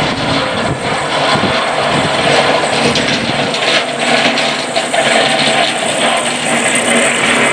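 Snow plow truck running on a snowy street, a loud steady engine noise.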